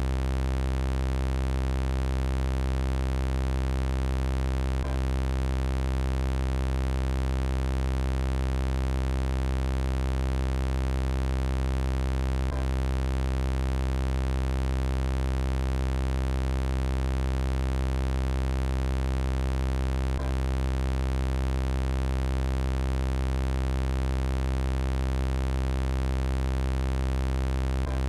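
Synthesized robot sound effect: a steady, low electronic buzzing drone with many overtones, unchanging in pitch. A faint click returns about every eight seconds where the loop repeats.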